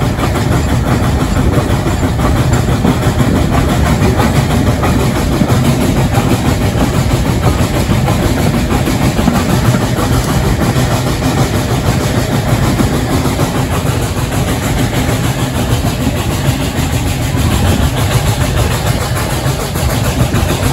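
Moving train heard from an open carriage window: a loud, steady rumble of the running train and its engine that does not change throughout.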